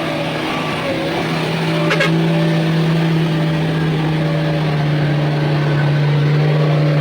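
Heavy mining dump truck's diesel engine running steadily under load, with a short sharp click about two seconds in.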